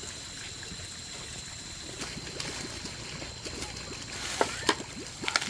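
Water trickling and sloshing, with a few sharp knocks or clatters near the end.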